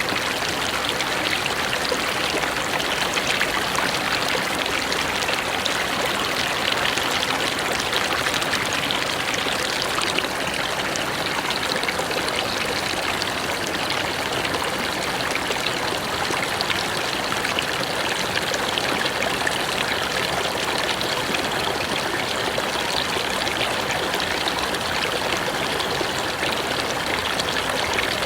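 Mountain river rushing and splashing over rocks in a steady, unbroken flow.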